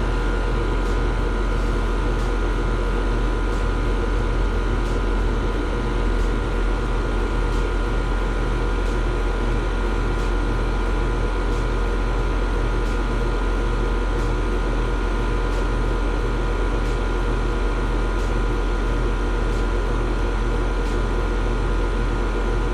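Outdoor condensing unit of an Amana split-system air conditioner running steadily with its newly replaced compressor: a constant hum with the condenser fan, and a faint tick about once a second.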